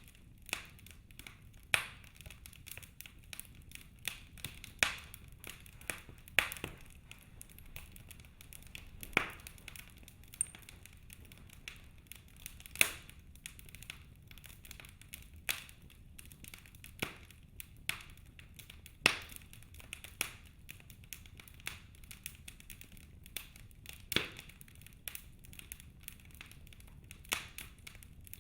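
Wood fire crackling in a fireplace: irregular sharp pops and snaps, a louder one every second or two with smaller ticks in between, over a faint steady background.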